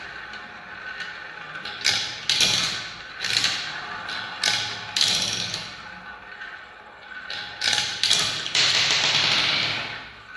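Marbles rolling down a marble run: a string of irregular clacks and rattles as the balls drop and strike the track, then a longer rolling whirr from about eight and a half seconds in that fades away near the end.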